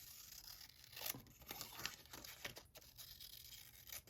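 Faint sound of a sheet of paper being cut: a crisp rasp broken by a few small clicks.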